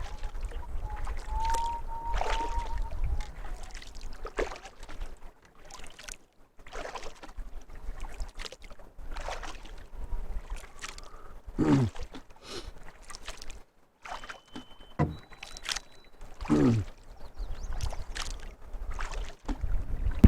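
Canoe paddled with a double-bladed paddle: short splashes of the blades dipping into the water every second or two. Two hollow plunks drop in pitch, one just before the middle and one about three quarters of the way through.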